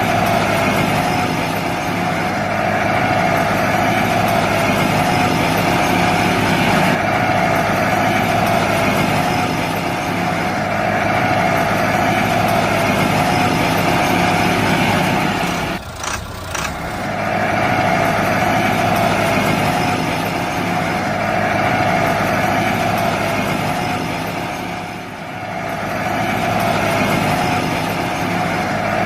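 A small motor running steadily with a constant whine. It drops out briefly about halfway through, then carries on.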